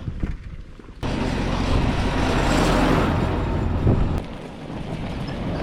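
Rushing noise of riding a bicycle, most likely wind buffeting the microphone along with tyre rumble. It starts suddenly about a second in, is loud for about three seconds, then drops to a lower steady rush.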